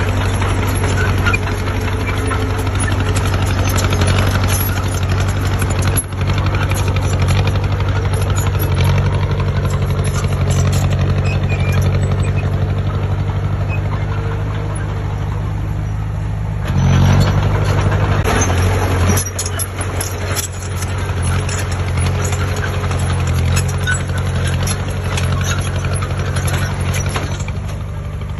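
Heavy construction machine's diesel engine running steadily with a deep hum, briefly rising in level about seventeen seconds in before settling back.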